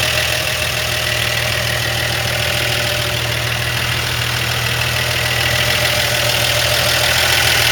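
1955 Chevrolet 3100 pickup's original 235 cubic-inch straight-six idling steadily. It runs very quietly, without the tappet clatter these engines usually have.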